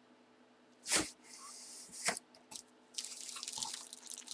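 Packaging being handled while a boxed jersey is opened: two sharp knocks about a second apart, then plastic rustling and crinkling near the end.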